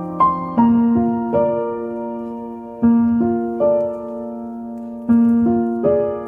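Background piano music: slow, gentle chords, each struck and left to ring, changing about every second or two.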